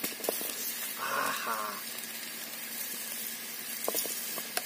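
Sliced new potatoes sizzling as they slide into hot oil in a steel kadai, with a few sharp clicks of a metal spatula against the plate and pan.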